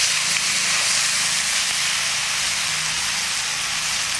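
Chopped onions, chillies, coconut and tomato frying in oil in an aluminium kadai over a wood fire: a steady sizzle.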